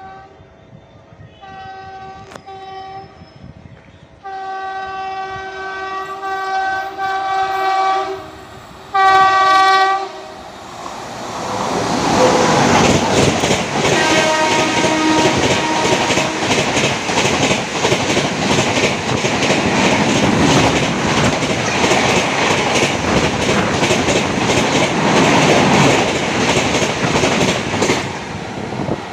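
A WAP-7 electric locomotive's horn sounds in a series of blasts, the longest lasting about four seconds, as an express train comes through the station at about 130 km/h without stopping. From about ten seconds in, the loud rush and rapid clickety-clack of the coaches passing at speed takes over, fading as the last coach goes by near the end.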